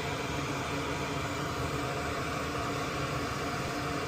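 Heat gun running, a steady blowing hiss with a faint hum, heating the board to melt solder so a component can be pulled off.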